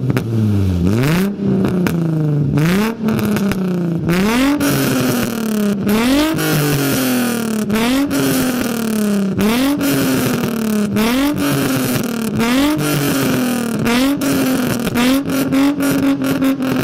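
Nissan 350Z's 3.5-litre V6 with test pipes in place of the catalytic converters, free-revved in quick repeated blips about every second and a half. The exhaust pops and crackles as the revs fall. Near the end the revs are held up for a couple of seconds among a rapid string of crackles.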